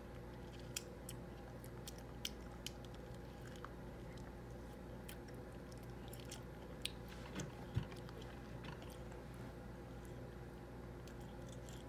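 Toddler biting into and chewing orange slices: scattered small clicks and smacks of the mouth, the loudest about eight seconds in.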